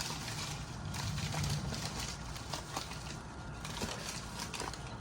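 Rustling of packaging and scattered light clicks and knocks as hands dig through a box of small concrete fingerboard park pieces.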